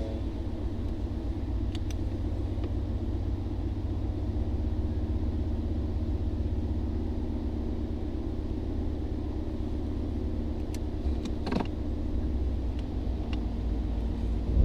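Ford 5.0 Coyote V8 of a 2017 Mustang GT with headers and catted exhaust, running at a steady speed with a low, even rumble and no revving, with a few faint clicks.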